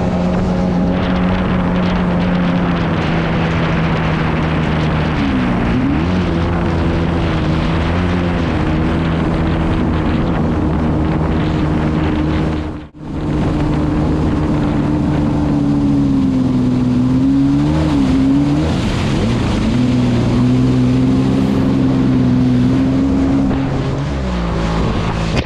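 Honda TRX450R quad's single-cylinder four-stroke engine running steadily under way, with short throttle changes about five seconds in and again near eighteen seconds, and a brief drop-out around the middle.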